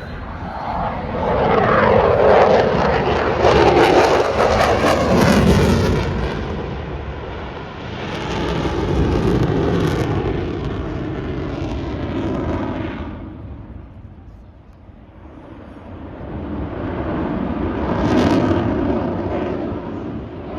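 Jet aircraft flying past three times, each pass swelling loud and then fading, with the engine pitch sliding down as it goes by.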